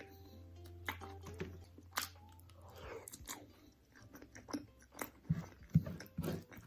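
Crunchy food bitten and chewed close to the microphone: a run of sharp, irregular crunches, the loudest a little before the end.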